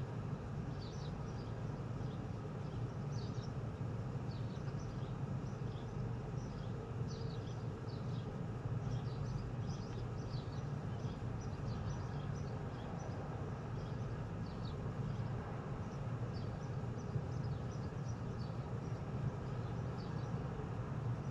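Small birds chirping over and over in short high chirps, over a steady low hum.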